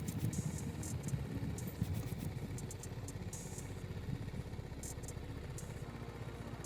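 BMW G310 GS motorcycle's single-cylinder engine running at low revs, a steady fast low putter.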